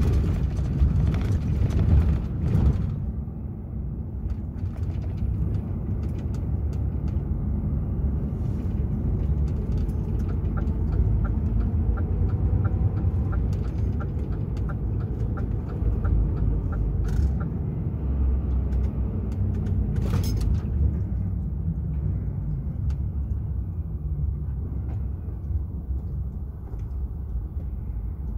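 DAF XF 480 truck's diesel engine running while driving, heard from inside the cab as a steady low rumble. A light regular ticking, about three a second, comes in for a few seconds midway.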